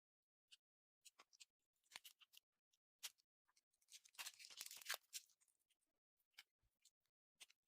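Slime being played with by hand: scattered soft sticky clicks and pops, with a denser crackling run in the middle.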